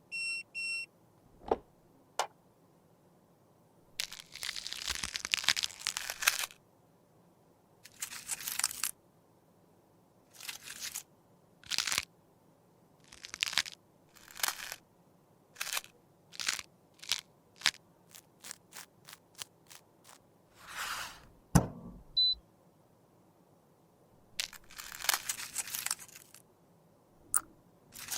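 Crunching and scraping of pressed makeup being crushed and worked with a tool. The sounds come in bursts of one to two seconds, with a run of quick single strokes through the middle. A short electronic double beep sounds at the very start.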